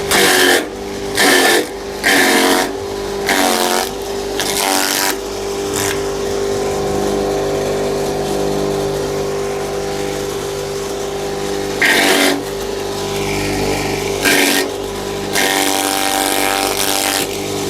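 Small electric grass chopper (chaff cutter) with its motor humming steadily, broken by loud bursts of chopping as stalks of odot grass are fed into the blades. There is a quick run of bursts in the first six seconds, a lull, then more near the end.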